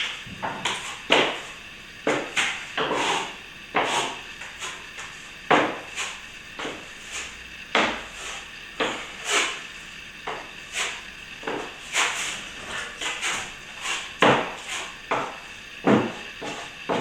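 Plastering trowel worked over fresh plaster in short, uneven scraping strokes, about one or two a second, polishing the surface smooth with water.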